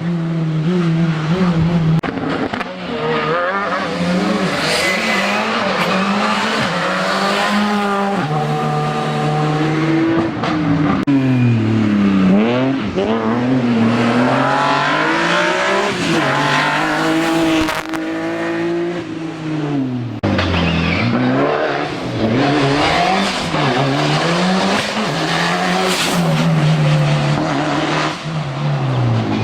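Racing car engine on a slalom course, revving hard and dropping repeatedly as it accelerates, shifts gear and brakes through the chicanes. The pitch climbs and falls many times, with deep drops about twelve and twenty seconds in.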